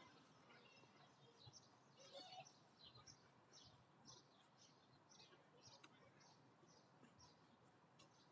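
Faint birdsong: a bird repeating short high chirps, about two a second, with other small bird calls.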